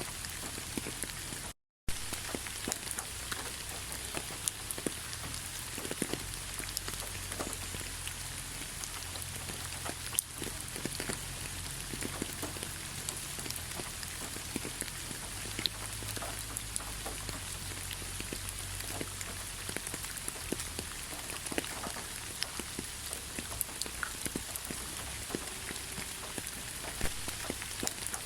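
Steady rain with many separate drop hits, broken once by a brief gap of silence about one and a half seconds in.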